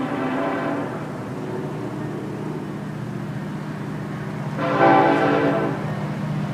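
Approaching freight train's diesel locomotives rumbling steadily. A train horn sounds one long chord-like blast about two-thirds of the way in, part of a sequence that carries on after it.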